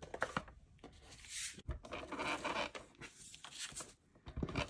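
Adhesive tape runner drawn in several short strokes across the back of a piece of paper, each stroke a rasping zip-like scrape, with light clicks of paper handling.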